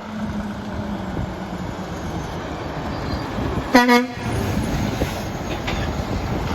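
A passing truck's steady road rumble, with one short blast of a truck horn about four seconds in.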